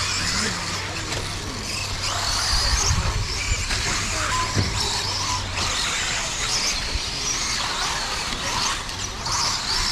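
Radio-controlled off-road race cars running laps on a dirt track, a busy high whine of motors and gearing that rises and falls as the cars speed up and brake, with a few short knocks.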